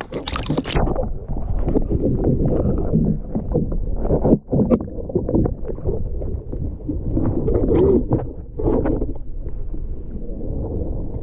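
Water sloshing and splashing against a kayak hull, with a steady low rumble of wind on the microphone and scattered short knocks and splashes throughout.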